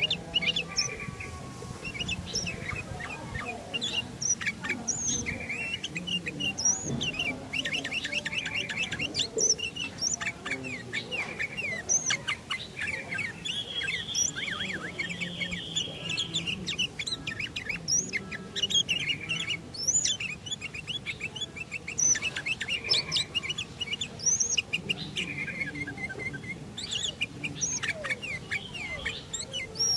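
Sooty-headed bulbul (kutilang) singing busily: quick runs of sharp chirps and short whistled notes, with a longer held note around the middle.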